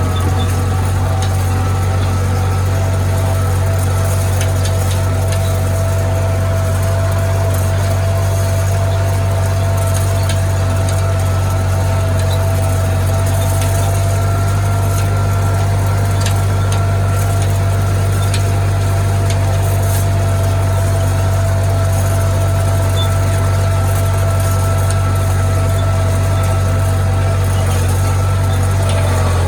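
International tractor engine running steadily under a constant throttle, a strong low drone with a steady whine above it. The whine's pitch dips slightly near the end.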